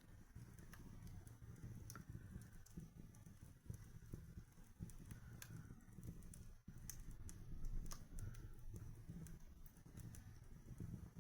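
Wood fire crackling in a fireplace, faint: irregular sharp pops and snaps over a low, steady rumble of the burning fire.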